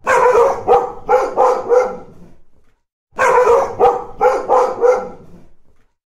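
Dog barking in two runs of about five quick barks each, with a pause of under a second between them.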